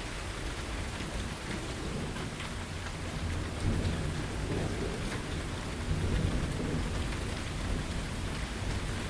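Steady rain falling, with a low roll of thunder that builds about a third of the way in, swells twice and fades toward the end.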